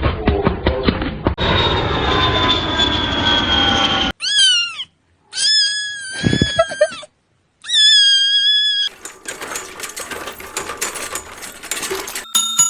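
A cat meowing three times, the middle call the longest. Before the meows come piano music and a falling tone. After them comes a steady hiss, with a chime near the end.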